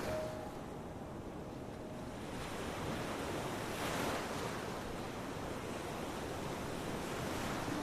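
Ocean surf washing onto a beach: a steady rush of breaking waves, with one wave swelling and receding about halfway through.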